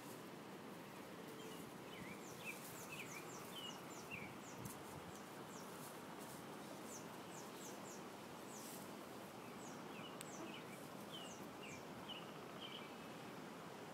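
Faint outdoor background noise with short, high, falling bird chirps coming in quick runs, about two seconds in and again about ten seconds in.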